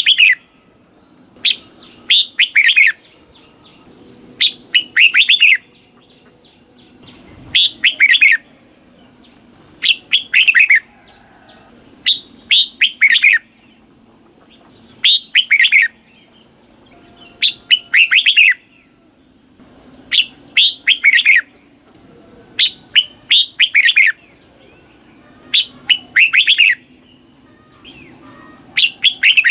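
Red-whiskered bulbul singing: about a dozen short, loud chirping phrases, one every two to three seconds, over a faint steady low hum.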